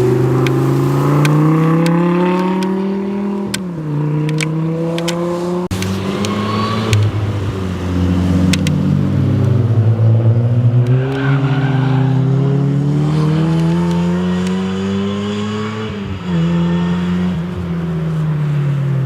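A performance car's engine being driven hard on a sprint course. Its revs climb and drop sharply at an upshift a few seconds in, fall away as it slows, then climb again to another sharp upshift near the end.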